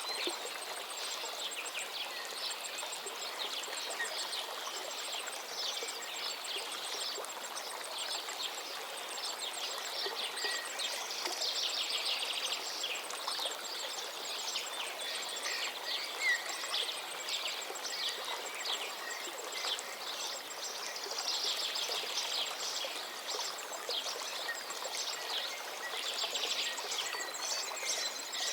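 Steady rush of a gently flowing forest river, with songbirds singing over it throughout; the birdsong grows busier about a third of the way in and again about three quarters through.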